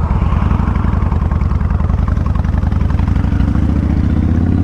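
A 2000 Kawasaki Vulcan 1500 Classic's V-twin engine runs with a steady, even pulse. About three seconds in, its pitch starts climbing as the engine speeds up.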